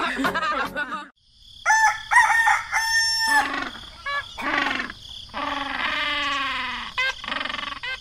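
A rooster crowing several times, with hen clucking, farmyard sound added to the scene; one crow is held steady near the middle and a later one falls in pitch.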